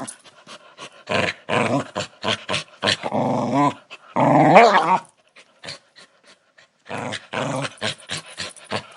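A dog growling aggressively in repeated bursts, a low rumbling warning growl. There is a pause of about two seconds in the middle before the growling resumes.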